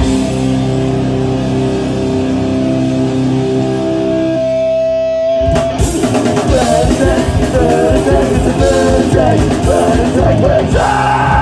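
Punk rock band playing live, loud: a held distorted chord rings for about four seconds, breaks off briefly, then fast guitar and drums come back in and stop sharply at the end of the song.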